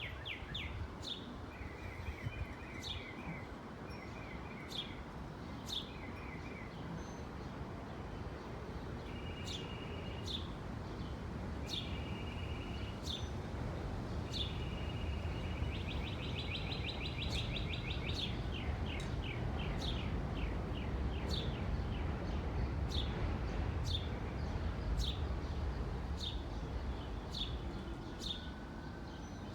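Songbirds calling: short, sharp high chirps repeated about once a second, with several rapid, even trills in between, over a steady low background rumble.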